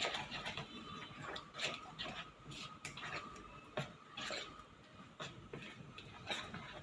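A spoon stirring rava idli batter in a bowl, with irregular clicks and scrapes of the spoon against the bowl.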